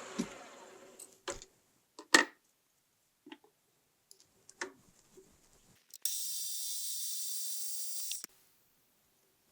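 Milling machine spindle running down in the first second, followed by a few sharp metallic knocks and clicks of tools and the workpiece being handled, the loudest about two seconds in. Near the end comes a steady high hiss of a little over two seconds that cuts off suddenly.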